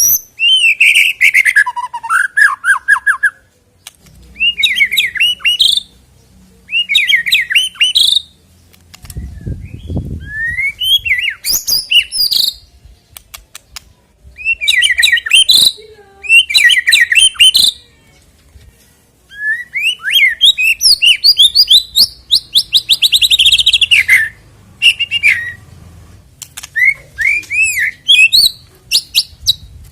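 White-rumped shama (murai batu) singing loud, varied phrases of rapid whistles, trills and chattering notes, in bursts of a second or two separated by short pauses.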